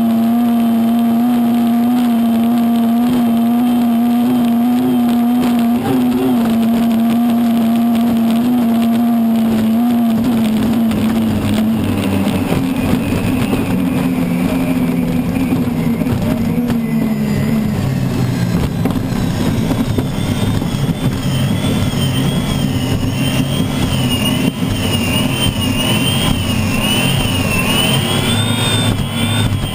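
Unlimited hydroplane's turbine engine running hard, heard onboard. The steady engine note drops in pitch about twelve seconds in. A high, wavering whine rises over it in the second half.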